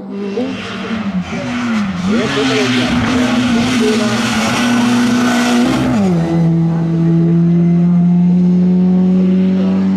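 Racing car accelerating away from a hillclimb start: the engine note rises and falls through the first couple of seconds under a loud hiss of tyre noise. About six seconds in the note drops and then holds steady.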